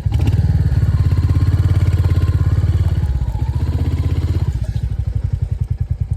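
Royal Enfield Hunter 350's single-cylinder engine running under load with a steady thumping exhaust beat. It is louder for about the first four and a half seconds, then drops quieter as the throttle is eased off.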